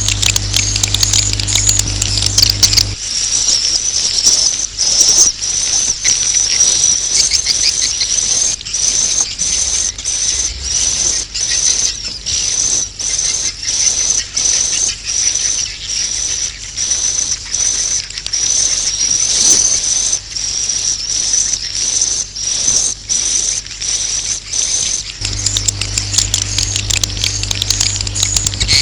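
Swiftlet roosting ('inap') lure call: dense, high twittering chirps that pulse about one and a half times a second. This is the kind of call played in swiftlet houses to draw the birds in to roost. A low hum sits under it for the first few seconds and comes back near the end.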